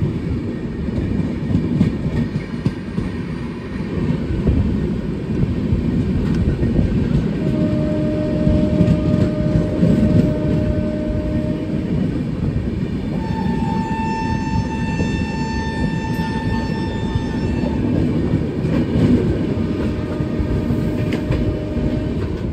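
LHB coaches of a passing express train running by at speed, with a steady rumble and wheel clatter on the rails. Two long train horn blasts sound in the middle, a lower one and then a higher one.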